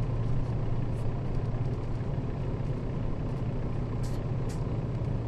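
Nissan Diesel KL-RA552RBN city bus's diesel engine idling steadily at the stop, heard from inside the bus, with a few brief high clicks about a second in and again around four seconds in.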